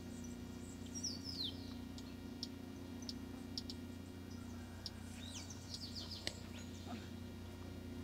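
Wild birds chirping: scattered short high calls and a few quick downward-sliding whistled notes, with a steady low hum underneath.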